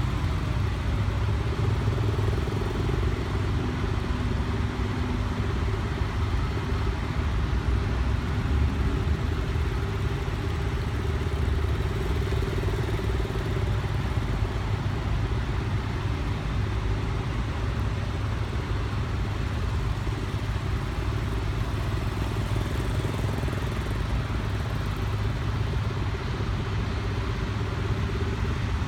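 Motorcycle running steadily at an even engine speed, with a low rumble and no revving up or down.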